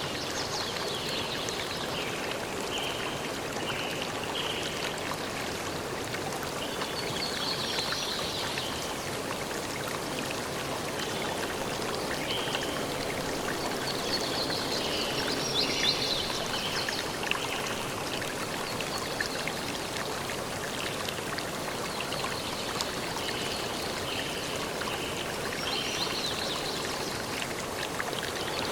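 Steady running water, with birds singing in short bursts of high chirps that come and go over it.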